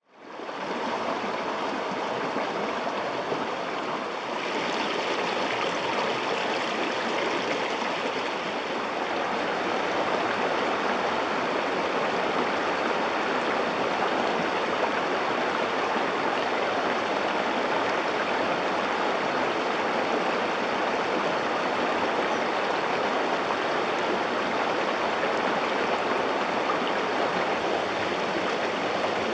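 River water rushing steadily over rocks, fading in at the start and then holding level.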